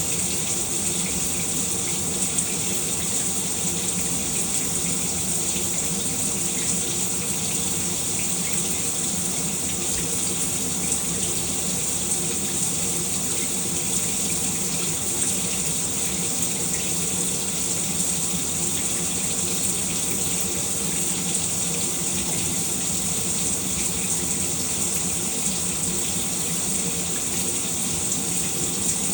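Shower running steadily: a constant spray of water falling and splashing, with no change or break.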